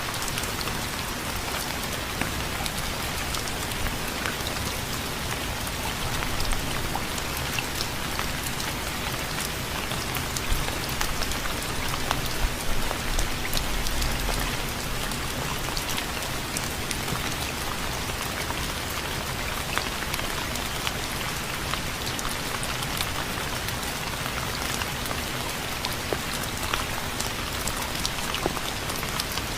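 Steady rain falling on a surface, an even hiss dotted with many close individual drop ticks.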